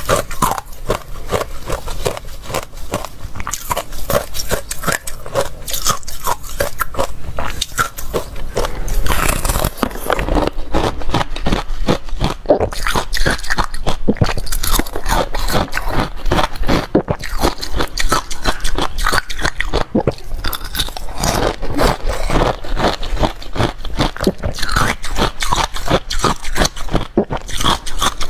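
A person biting and chewing ice: a dense, unbroken run of crackly crunches, growing louder and denser about nine seconds in.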